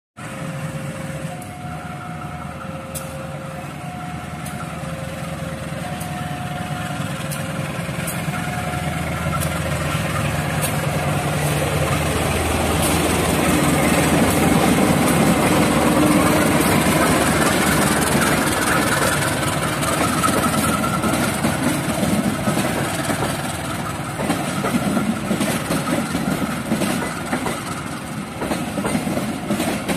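A CC 201 diesel-electric locomotive (GE U18C) approaching and passing, its engine drone growing to loudest about halfway through, followed by the clatter of the cargo vans' wheels over the rail joints. During the first several seconds a two-note tone alternates regularly in the background.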